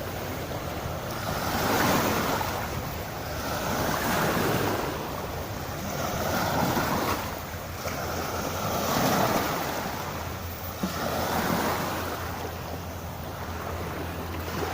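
Small sea waves washing onto the shore, swelling and falling back about every two seconds, with wind rumbling on the microphone. One brief click about three quarters of the way through.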